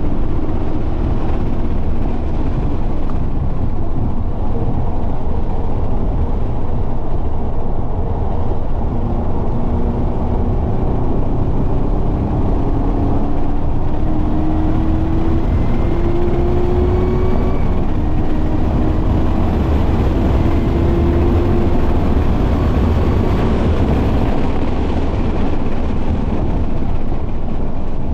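Chevrolet Camaro ZL1 1LE's supercharged 6.2-litre V8 driven hard on a race track, over a heavy low rumble of road and wind noise. Through the middle stretch the engine note climbs slowly and steadily under a long pull.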